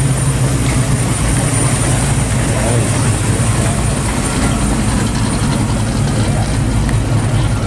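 A 1971–72 Chevrolet Chevelle SS's V8 engine idling as the car rolls slowly by, a steady low engine note.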